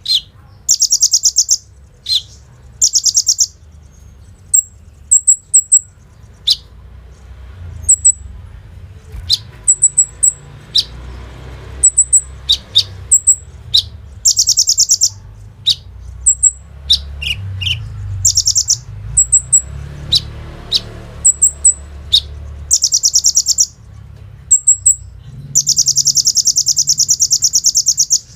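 A kolibri ninja (sunbird) singing: bursts of a fast, high buzzing rattle alternate with short, sharp high chirps. A long rattle comes near the end.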